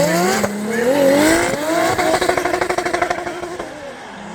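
Drift car engine revving hard, its pitch climbing in repeated rises. It then holds at steady high revs with a rapid, even stutter and fades near the end.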